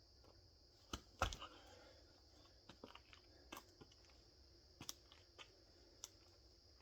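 A few sharp knocks and clicks over faint room tone, the loudest two close together about a second in and smaller ones spread through the rest, with a faint steady high whine underneath.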